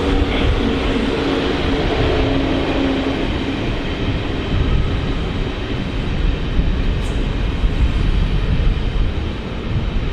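Train running through a station: a steady rumble, with a low hum of several tones that fades out about three seconds in.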